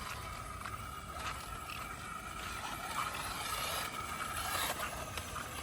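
A 1:8 electric RC buggy running on wet ground, its motor giving a steady high whine over a constant hiss of rain and spray.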